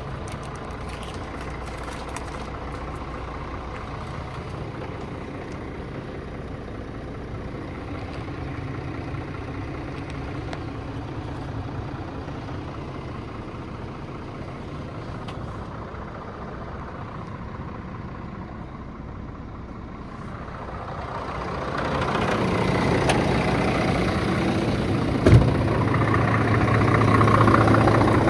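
Scania R450 truck's 13-litre inline-six diesel idling with a steady hum. About 21 seconds in it grows louder and holds steady, and a single sharp knock sounds a few seconds later.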